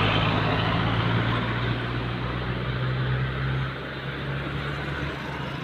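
Heavy truck engine running with a steady low drone as it passes, growing gradually quieter as it moves away.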